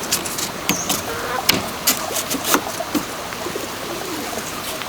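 A few scattered sharp knocks and clicks, one about every half second to second through the first half, over a steady background hiss.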